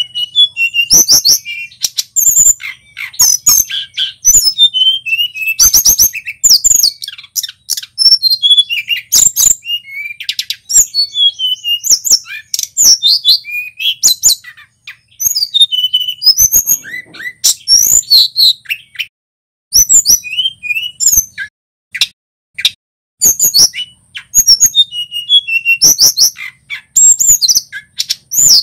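Male tledekan gunung singing a fast, varied song of high sliding whistles and sharp chirps, broken by a couple of short pauses about two-thirds of the way through.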